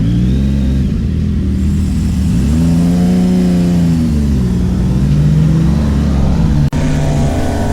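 CFMoto 675SS motorcycle's three-cylinder engine running under the rider, revving up and back down about three seconds in, then holding a steady lower pitch.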